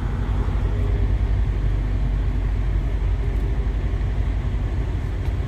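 Semi truck's diesel engine running steadily at low speed while the truck backs up.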